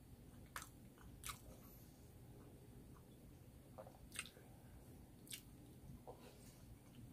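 Faint mouth sounds of a person chewing a mouthful of spicy noodles, with a few short, sharp clicks over a low steady hum.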